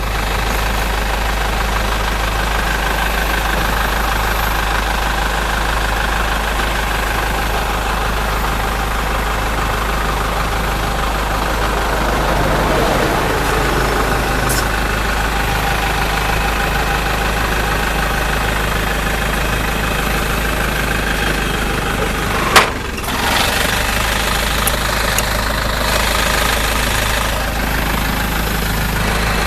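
A truck engine running steadily at idle. There is one sharp click about three-quarters of the way through.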